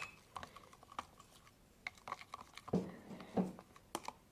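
Irregular light clicks and taps of containers and a utensil being handled while mixing glue and water, with two louder, duller knocks in the second half.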